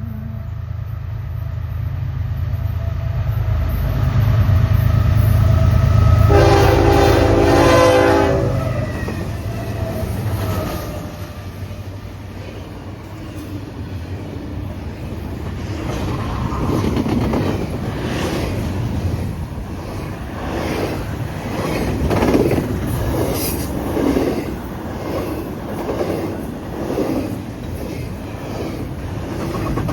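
Fast intermodal freight train passing: the diesel locomotives' low rumble builds and peaks, with a horn blast of about two seconds some six seconds in. Then comes the rhythmic clickety-clack of the cars' wheels over the rail joints as the train goes by.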